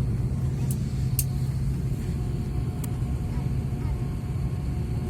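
Steady low hum and rumble inside an airliner cabin on the ground before takeoff, with a few faint clicks.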